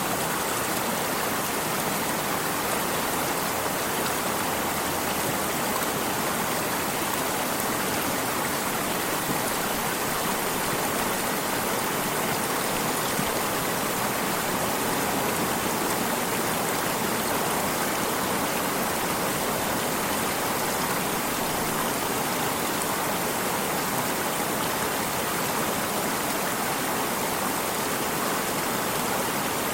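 Flowing stream water, a steady even rushing and trickling without pause.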